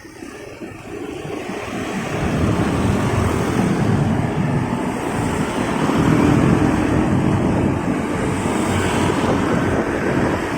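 Wind rushing over the microphone with motorcycle and road noise from a ride in traffic, swelling over the first two seconds as the bike gets moving, then holding steady.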